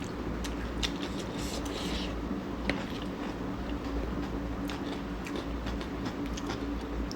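Electric fan humming steadily, with scattered small crunches and clicks of someone chewing chatpate, a crunchy puffed-rice snack.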